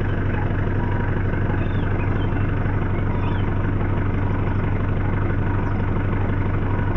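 Safari vehicle's engine idling with a steady low hum.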